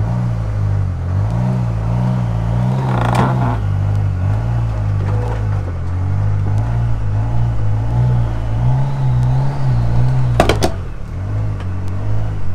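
Ford Focus diesel engine running at low revs, its pitch wavering slightly as it tows a car on a strap; the owner says its turbo doesn't work and its head gasket is blown. A sharp double knock about ten seconds in.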